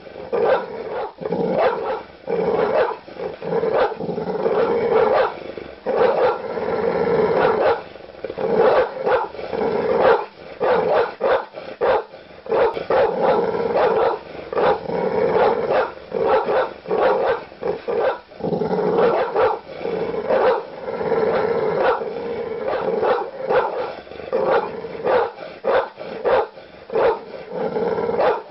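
Large dog barking aggressively in a rapid, unbroken string of deep barks.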